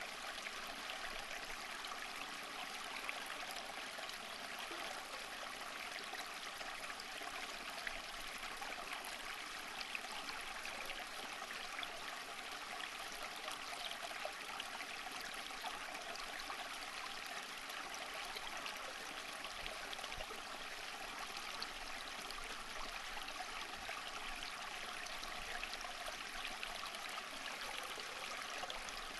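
Running water of a stream flowing steadily, with fine trickling and splashing.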